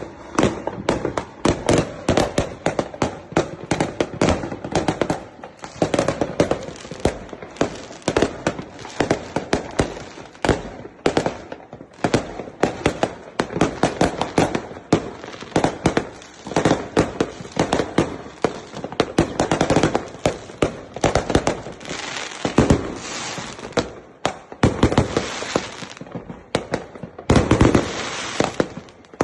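Fireworks and firecrackers going off in a dense, continuous barrage of sharp cracks and bangs.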